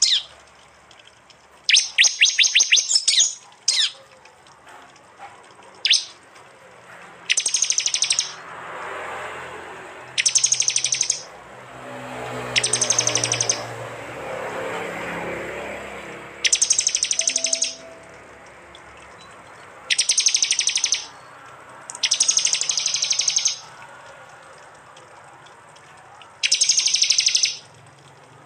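Prinias (prenjak) giving their rapid-fire "tembakan" calls: about ten short, loud bursts of fast, high, clicking notes, a second or so each, repeated every couple of seconds. Midway a broad rush of noise swells and fades under the calls.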